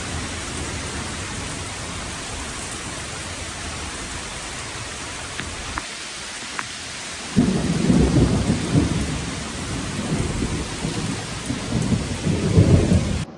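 Heavy rain pouring steadily in a severe thunderstorm, with a few faint ticks. About seven seconds in, a loud low rumble of thunder starts and rolls on, swelling, until the sound cuts off near the end.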